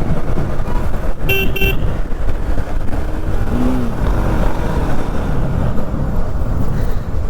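Motorcycle riding in road traffic, its engine and wind noise running steadily, with a vehicle horn tooting twice in quick succession about a second in.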